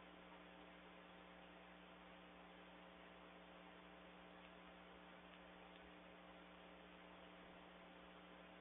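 Near silence: a faint, steady electrical hum with hiss from the recording chain.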